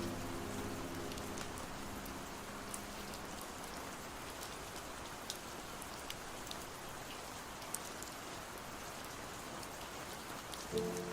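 Steady rain falling, an even hiss with scattered sharp drop ticks. The fading tail of a slow song dies away in the first few seconds, and the next song comes in just before the end.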